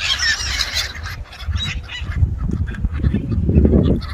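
A flock of pond birds calling noisily. There is a burst of high, shrill calls at the start, then lower, rough calls that build up toward the end.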